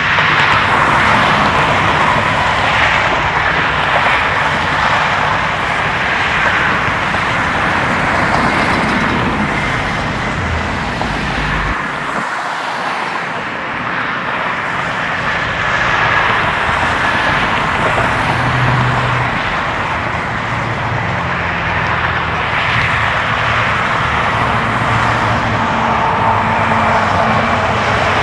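Steady road traffic noise: a continuous rush of passing cars with no sharp bangs standing out.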